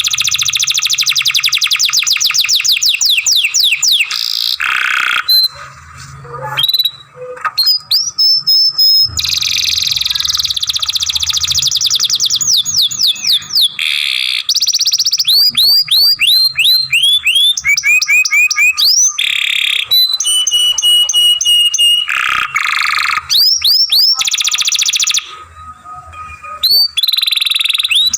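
Domestic canary singing a long, continuous song in repeated tours of rapid trills, chirps and falling whistled sweeps. There are short pauses about five seconds in and again near the end.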